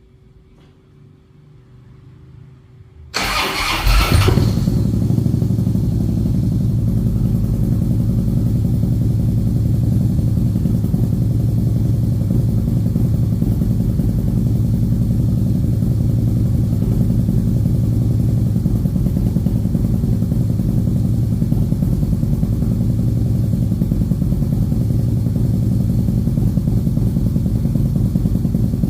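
Harley-Davidson V-twin motorcycle engine cold-started after about two months unused: the starter cranks briefly about three seconds in, the engine catches almost at once and settles into a steady idle.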